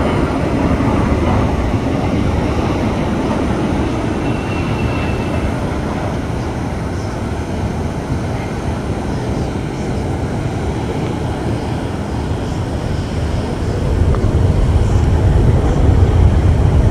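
Jet engine noise from a Boeing 777-9's GE9X turbofans as the airliner flies its display: a steady, deep rumbling roar that grows louder near the end.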